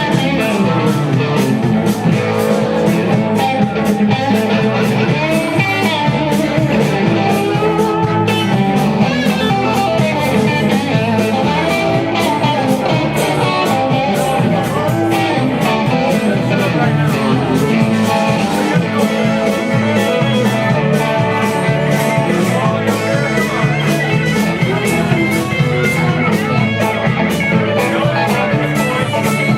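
Instrumental break of a country-rock song: guitar playing over a full band with a steady beat.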